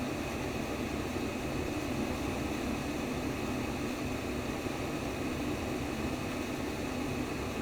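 Simulated womb sound: a steady rushing white noise, strongest in its low-middle range, with no clear beat.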